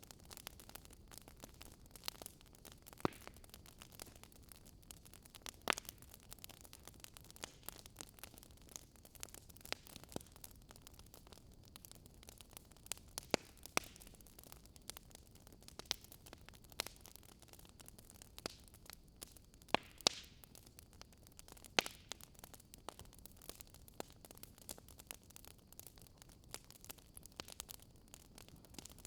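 Wood fire crackling in a fireplace: a low steady hiss of burning with frequent irregular snaps and pops, a few of them sharper and louder.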